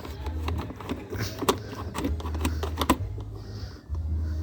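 Irregular small plastic clicks and rattles as the lifting arm of a toy recycling truck is worked by hand, over a low handling rumble.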